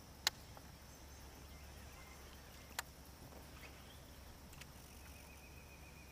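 Quiet outdoor ambience with faint insects buzzing, broken by two sharp clicks or knocks about two and a half seconds apart.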